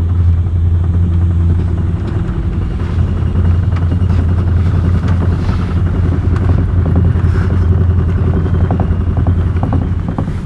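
Steady low rumble of a moving passenger train on the Qinghai–Tibet Railway heard from inside a sleeper carriage, with a light, rapid clatter over it.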